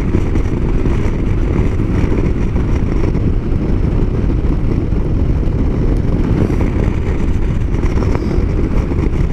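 Motorcycle riding along, with a steady low rumble of wind buffeting the microphone over the engine.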